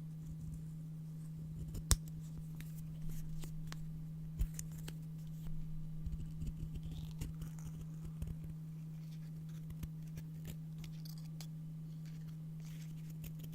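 Scissors snipping and handling paper: scattered sharp clicks, the sharpest about two seconds in, with a busier run of small snips and rustles in the middle that thins out to a few ticks. A steady low hum runs underneath.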